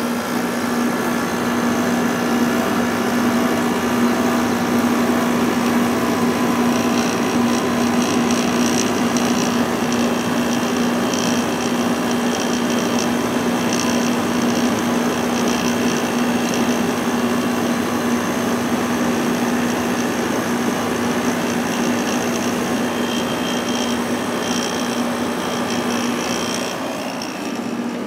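Vintage Emerson Quiet Kool 6,300 BTU window air conditioner running on low with its rotary compressor on: a steady rush of fan air over a constant low hum.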